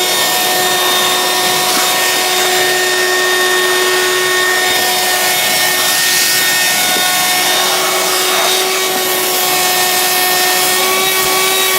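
Hoover Quik Broom Encore S2551 stick vacuum's two-speed motor running steadily on high speed, drawing air through its on-board hose: a constant whine over rushing air.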